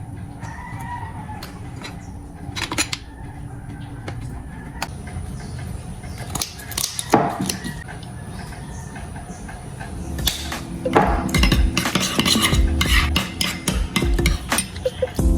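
Dishes and cutlery clinking in scattered light knocks and taps. About ten seconds in, background music with a regular beat comes in.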